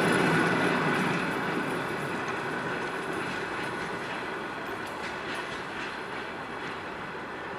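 Passenger train's coaches rolling over the rails as it departs, the rumble fading over the first couple of seconds as the train moves away, then continuing more quietly.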